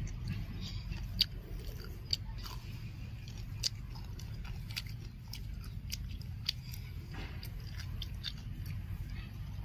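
Children eating fried chicken legs and cucumber: close chewing with sharp, crisp crunching bites every second or so.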